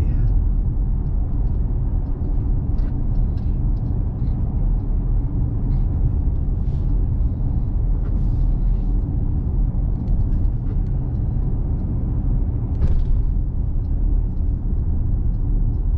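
Steady low rumble of a small truck driving along a road, engine and tyre noise heard from inside the cab, with a few faint ticks.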